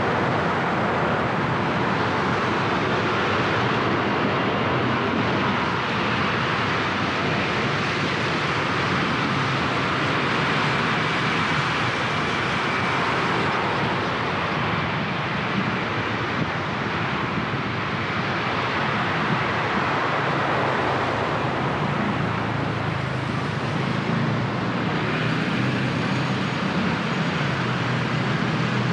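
Steady road and traffic noise heard while driving a car on a rain-wet city road: tyre hiss and engines at a constant level, with no sudden events.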